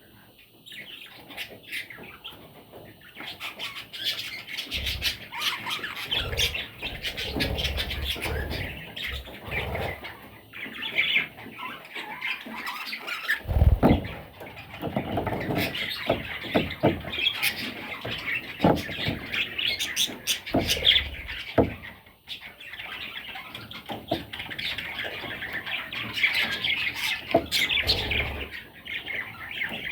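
Pet budgerigars chattering and chirping almost without a break, a busy warbling flock sound, with scattered sharp clicks and knocks. The loudest knock comes about fourteen seconds in.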